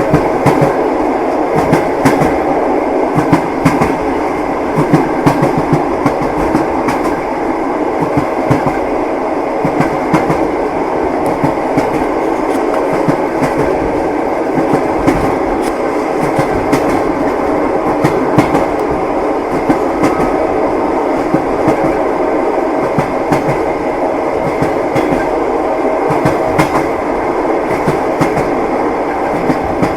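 Moving train running steadily: a continuous rumble with frequent, irregular clacks of the wheels over the rail joints.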